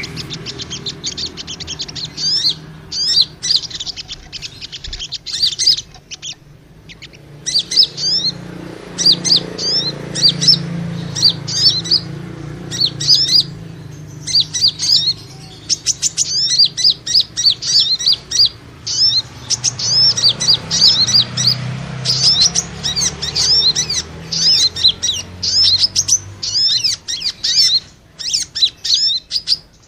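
Bird-lure recording of small birds fighting: a dense, rapid chatter of short high chirps, coming in quick runs with brief pauses, over a faint low hum.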